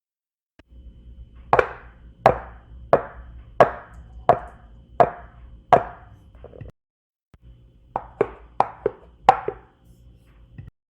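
A series of sharp knocks: seven evenly spaced, about one and a half a second, then after a short break a quicker run of about six.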